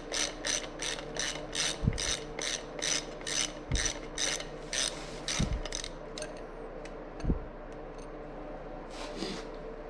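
Hand ratchet wrench cranked in quick short strokes, about three a second, on the rear sprocket bolts of a dirt bike wheel; the ratcheting stops about six seconds in and picks up briefly near the end. A few dull knocks come at intervals of about two seconds.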